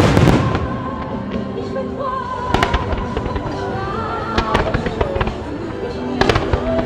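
Fireworks bursting overhead: a loud bang with a trailing crackle at the start, then sharper bangs about two and a half, four and a half and six seconds in. Music for the choreographed display plays steadily underneath through public loudspeakers.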